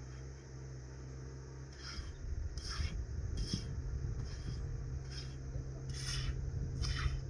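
Repeated rasping scrapes, roughly one a second, over a steady low hum.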